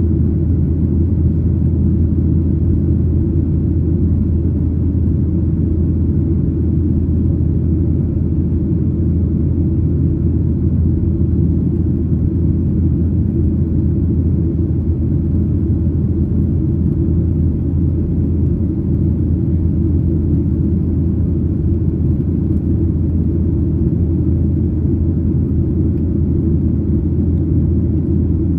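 Steady low rumble of a Boeing 737-900ER with its CFM56-7B engines running, heard from inside the cabin at a window seat.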